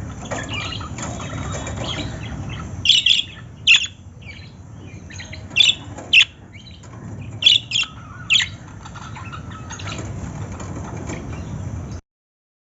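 Small pet parrots chirping: about seven loud, sharp, high chirps in short clusters over softer twittering, with a low steady noise underneath. The sound cuts off suddenly near the end.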